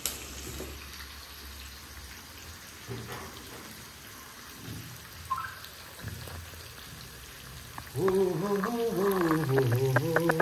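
Onions and green chillies frying in hot oil in a kadai: a steady sizzle with small crackles. A voice comes in near the end.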